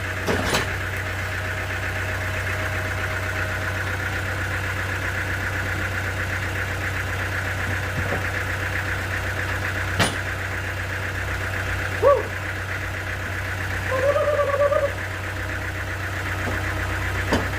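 Sawmill machinery running steadily: a constant low hum with a high, finely pulsing whine. Sharp knocks come just after the start and about ten seconds in, and a couple of short higher-pitched sounds come near the end.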